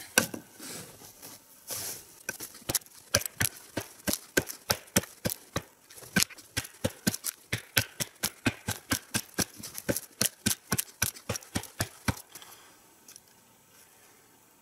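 An axe chopping a notch into a standing dead pine trunk, quick sharp blows about three a second, which stop about twelve seconds in.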